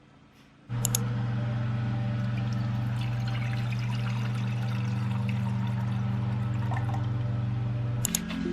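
A steady electric hum with a rushing, pouring-like noise over it, switching on abruptly under a second in and cutting off shortly before the end.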